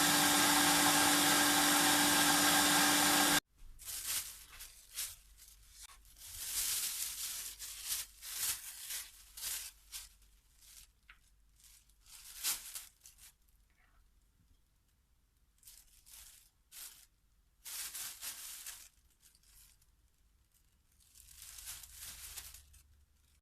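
An electric kitchen grater or food processor motor runs steadily with a fixed hum, cutting off about three seconds in. After that comes irregular rustling and crinkling of plastic bags, as grated carrots are packed into bags.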